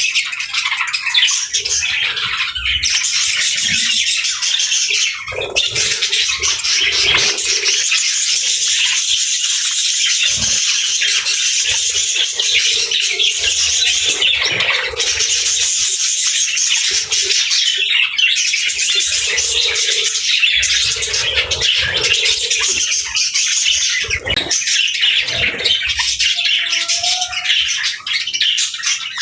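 Several budgerigars chattering and warbling nonstop, a dense stream of high chirps and squawks.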